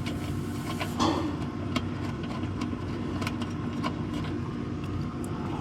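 Light clicks and knocks of hands and tools working the plastic coolant overflow reservoir loose in a car's engine bay, over a steady low engine-like hum. The loudest knock comes about a second in.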